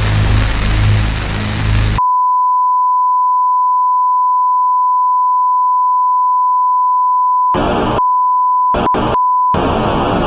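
Noisy music cuts off abruptly about two seconds in, replaced by a loud, steady single-pitch electronic beep like a test tone that holds for about five seconds. Near the end, short bursts of harsh, noisy sound break in and chop the tone up.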